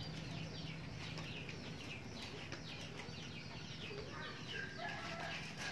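Birds chirping in the background: many short, falling calls in quick succession, over a faint steady low hum.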